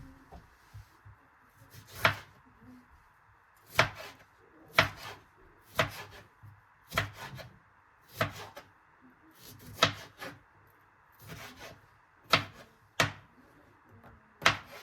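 Knife chopping on a wooden cutting board: single sharp knocks, roughly one a second, over a faint steady hiss.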